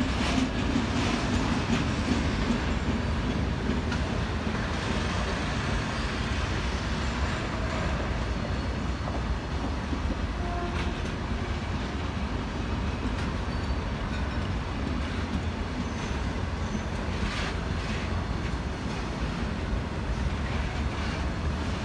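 Freight train of loaded flat wagons rolling past with a steady rumble, and occasional sharp clicks from the wheels on the rails.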